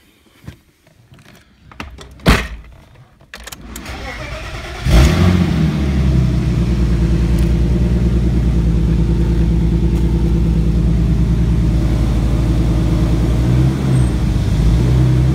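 A few clicks and a thump, then a BMW E30's engine is cranked over briefly from cold. It catches about five seconds in with a loud burst and settles into a steady, rapid idle that is loud through a minimal exhaust system.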